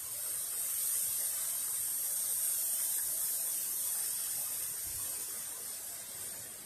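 Steady rain falling, a high hiss that swells slightly and then eases off toward the end.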